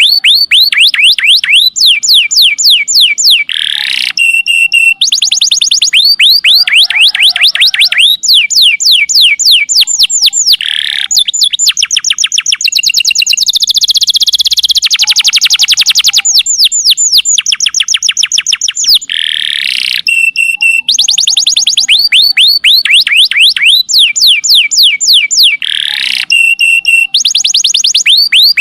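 Domestic canary singing loudly: phrase after phrase of rapid trills made of fast falling whistled notes, with short steady high notes between the phrases.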